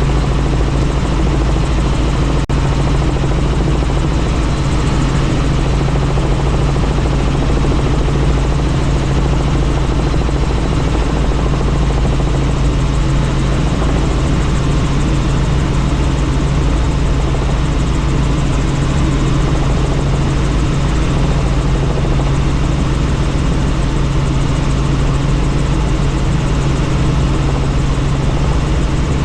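Helicopter in flight, heard from on board: a loud, steady drone of rotor and engine with a constant low hum.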